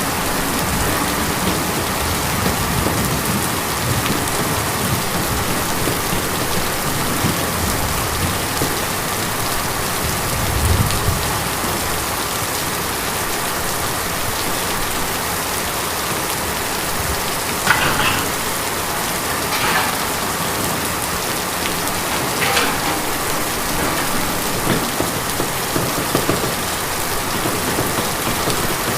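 Steady rain on a tin roof: a continuous hiss of drops on the metal, with a few louder, sharper drops tapping in the last third.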